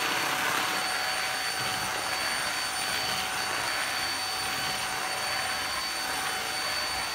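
Skylar handheld UV vacuum cleaner running steadily: an even motor hiss with a high, constant whine.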